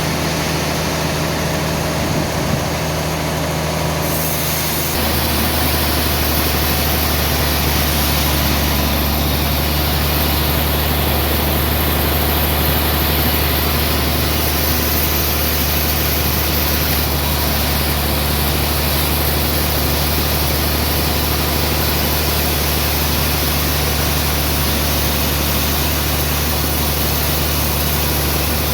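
Sawmill machinery running steadily: a low, even hum with a broad hiss over it, the hum shifting slightly about five seconds in.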